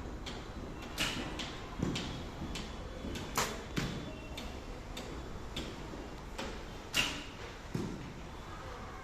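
Archery: bows loosing arrows, each sharp release followed under a second later by a dull thud of the arrow striking, three times, with fainter clicks between.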